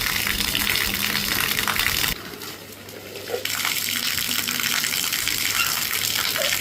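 Water gushing steadily, dropping away for about a second a couple of seconds in and then coming back.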